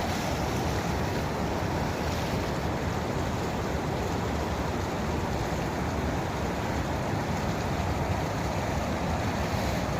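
Floodwater rushing steadily over a village tank's overflow weir, the flow running high after heavy overnight rain.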